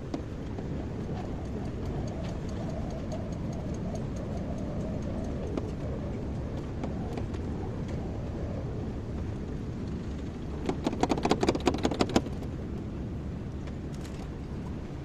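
Kobelco excavator's diesel engine running steadily with a low rumble. About two-thirds of the way through, a quick run of knocks and clicks lasts about a second and a half.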